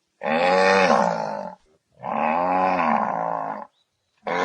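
Zebu lowing: two long moos, each rising and falling in pitch, with a third starting at the very end.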